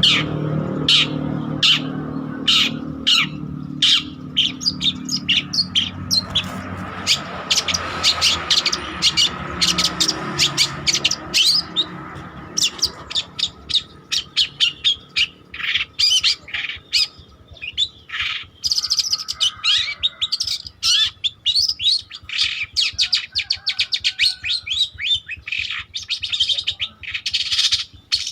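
Long-tailed shrike (cendet) in full song: a rapid, unbroken stream of short, sharp chirps and chattering notes. A low steady rumble sits underneath through the first half and fades away.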